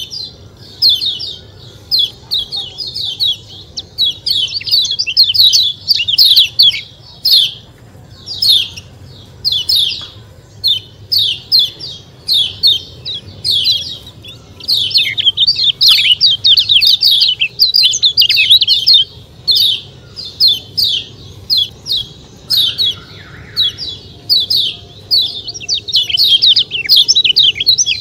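Kecial kuning songbird calling 'ciak ciak': rapid runs of high, sharp chirps, repeated in quick bursts with short gaps, over a faint low hum.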